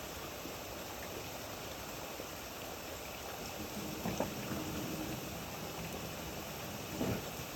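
Steady rainfall, an even hiss, with a few louder drops or taps about four seconds in and near the end. A faint low hum rises briefly underneath around the middle.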